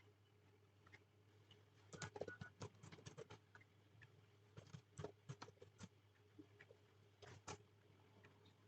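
Faint clicking of a computer keyboard being typed on in three short bursts, over a low steady hum.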